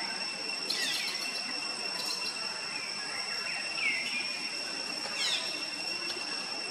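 Birds chirping outdoors: a few short, high calls, each falling steeply in pitch, spaced a second or more apart, over a steady high-pitched drone.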